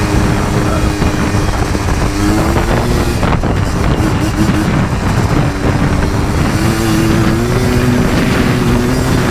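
Yamaha Blaster 200's two-stroke single-cylinder engine running under throttle while riding, its pitch rising and falling with engine speed, with wind buffeting the microphone.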